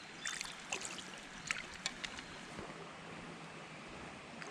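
Shallow creek water running steadily, with a few short clicks and knocks in the first couple of seconds.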